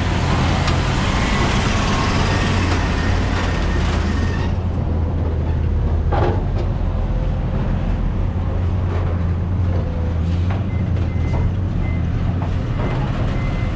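Heavy truck's diesel engine running steadily close by. The higher road noise drops away about four and a half seconds in, and a short hiss comes about six seconds in.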